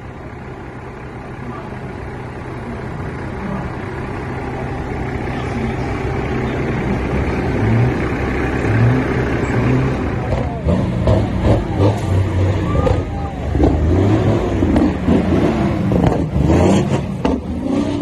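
Truck engine running and growing steadily louder as it accelerates, with voices coming in over it in the second half.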